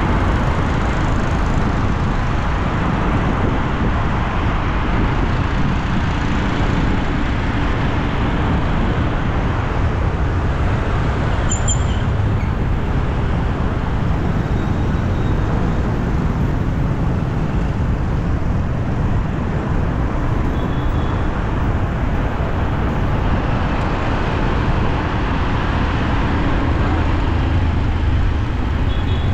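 Steady road traffic noise with no clear individual vehicle, and a brief high squeak about twelve seconds in.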